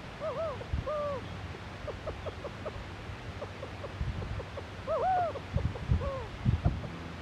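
Owl calling in short arched hoots: two near the start and another about a second in, then a run of quick faint short notes, and louder hoots again about five seconds in. Low wind rumble and a few thumps from wind on the microphone sit underneath.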